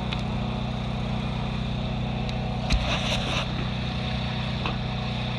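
Generator engine running steadily with a constant low drone, and a brief knock and clatter about three seconds in.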